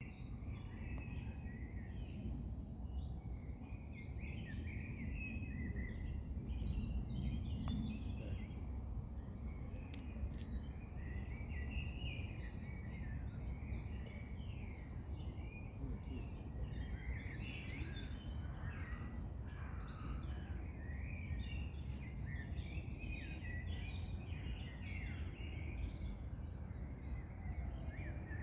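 Several small birds singing and calling, many short chirps and trills overlapping, over a steady low rumble.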